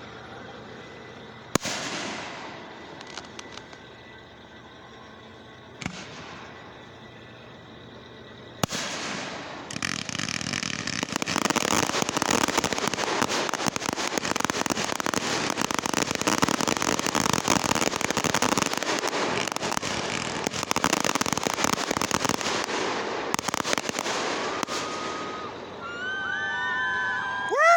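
Fireworks going off: a few single sharp bangs in the first nine seconds, then a long stretch of dense crackling from about ten seconds in that thins out near the end. Right at the end comes a loud rising pitched sound.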